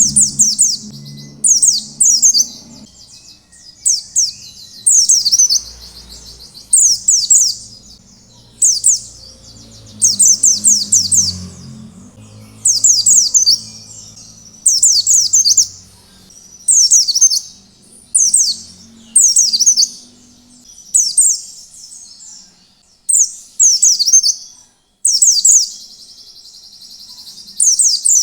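White-eye (pleci) singing: short, high-pitched twittering phrases repeated about once a second, with a longer buzzy trill near the end.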